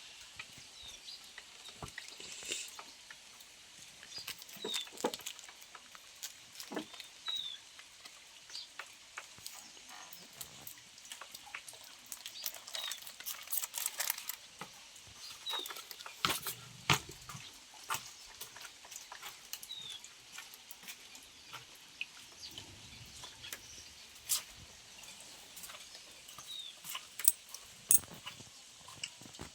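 Rain falling, with irregular drops pattering and dripping as scattered sharp ticks over a steady hiss, and short high chirps now and then.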